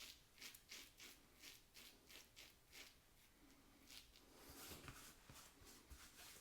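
Faint, short scraping strokes of a Leaf Thorn safety razor's Feather blade cutting stubble through lather, about three strokes a second, with a pause about three seconds in before a few more strokes.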